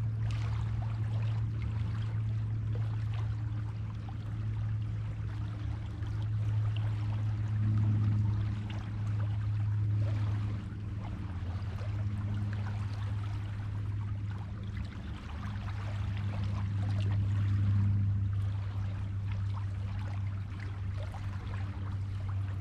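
Waves washing and fizzing on a beach, swelling about 8 and 18 seconds in, over a steady low hum.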